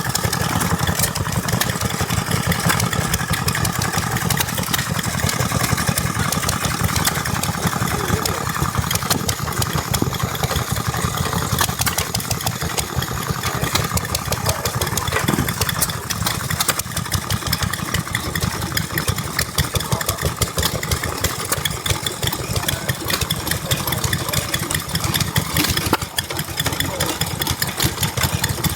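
Vintage stationary engine running steadily at idle, an even, unbroken chain of firing strokes.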